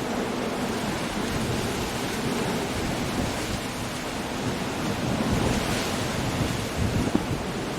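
Coastal storm: surf breaking against a rocky shore with wind and rain, a steady noise that swells about two-thirds of the way through, with a couple of short sharp knocks near the end.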